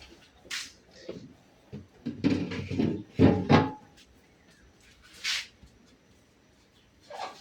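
Household objects being handled: a short swish, then about a second and a half of knocking and rattling as things are moved about, then another short swish.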